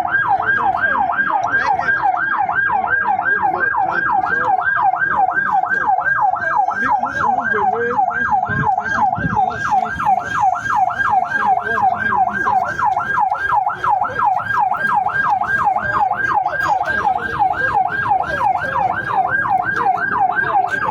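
Fire engine's siren in fast yelp mode, a loud tone sweeping up and down about three times a second without a break.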